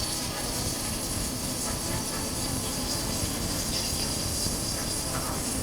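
Steady rush of wind over a chest-mounted action camera's microphone while riding a Honda CB400X motorcycle, with engine and road noise beneath it at an even level throughout.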